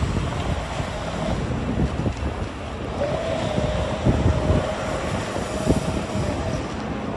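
Wind buffeting the microphone over a steady rushing noise. A single steady tone comes in about three seconds in and holds for roughly three and a half seconds.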